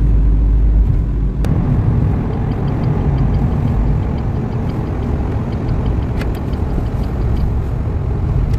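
Steady low road and engine rumble inside a moving car. From a couple of seconds in, a faint regular ticking comes in at about three ticks a second.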